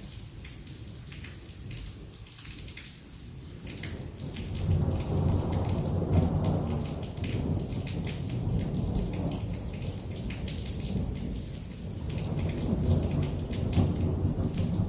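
Heavy rain falling steadily, with fine ticks of drops striking a surface, under rolling thunder. A low rumble of thunder swells about four seconds in, eases off, then builds again near the end.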